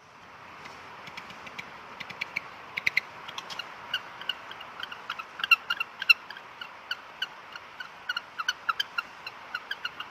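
Short, pitched animal squeaks repeating irregularly, several a second, over a steady hiss.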